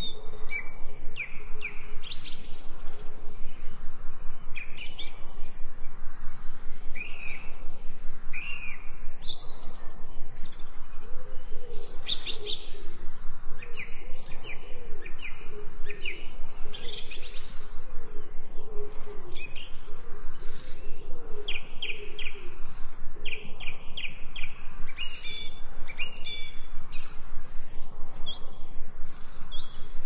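Wild songbirds chirping and singing in a dense, overlapping chorus of short, quick high notes and whistles. A lower, wavering call runs through the middle stretch.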